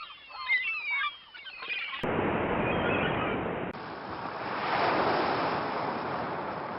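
Several birds calling in quick, swooping cries. After two abrupt cuts, a steady outdoor rush of wind and waves follows.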